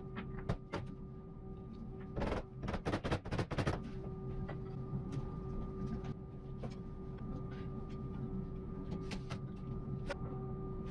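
A quick run of sharp knocks in the first few seconds, over a steady hum with a faint level whine that carries on after the knocks stop.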